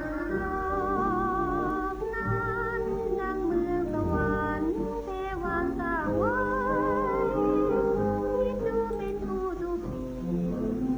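Background music: a woman singing with wavering vibrato on held notes over instrumental accompaniment.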